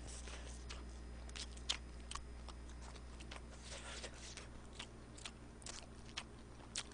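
Close-miked chewing of French fries: faint, irregular mouth clicks and smacks, over a steady low electrical hum.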